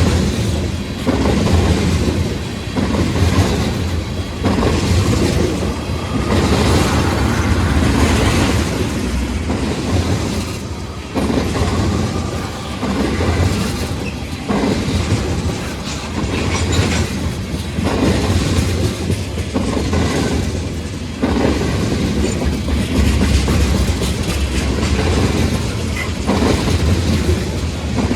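Freight train cars rolling past, wheels clattering over the rail joints in an uneven, ongoing rhythm.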